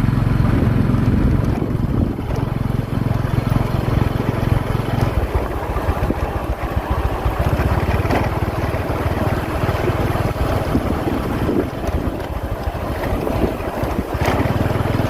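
Small motorcycle engine running on the move, with heavy wind buffeting the microphone. The engine's steady hum is clear for the first few seconds, sinks under rougher wind noise through the middle, and comes back near the end.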